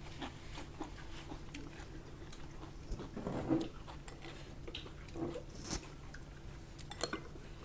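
Close-miked eating sounds: chewing and wet mouth clicks, with light clinks of a metal spoon in a glass bowl as curry is ladled out.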